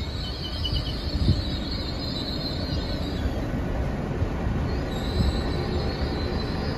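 Great Western Railway Class 802 bi-mode train pulling out of the platform under diesel power: a steady rumble of engines and wheels, with a high-pitched wheel squeal that fades and returns.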